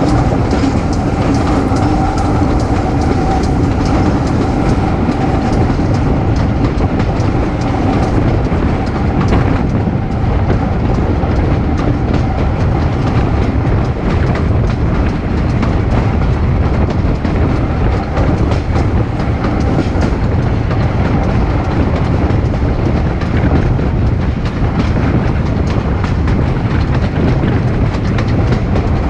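Steam-hauled heritage train, an ex-GWR 2-6-2 tank locomotive with its coaches, running along the line, heard from an open carriage window: a steady loud rumble of the wheels on the track with the clickety-clack of rail joints.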